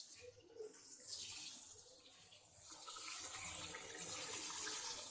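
Onion and ginger-garlic paste frying in hot mustard oil in a pan, sizzling and bubbling faintly, a little louder from about halfway in.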